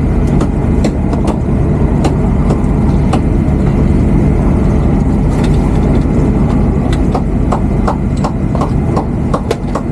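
Boat engine running steadily at a constant low drone, with scattered sharp clicks and knocks over it, more frequent near the end.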